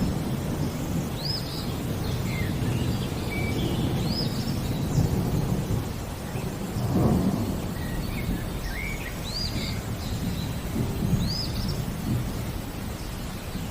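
Thunder rumbling low and continuously over rain, swelling louder about halfway through. A bird repeats a short, high, hooked call every couple of seconds, with softer chirps between.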